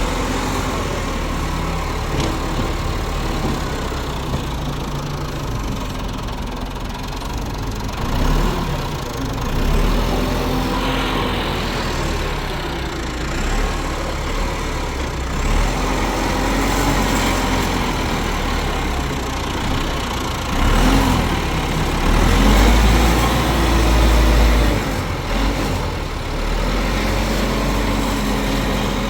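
An engine running steadily with a low rumble that swells louder a few times, most strongly about three-quarters of the way through.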